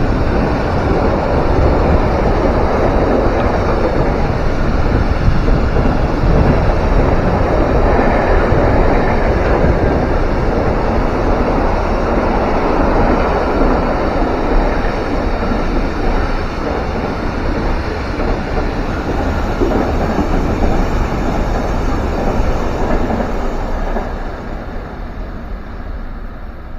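A train passing on the rails, a loud, steady running noise of wheels and cars that fades over the last few seconds.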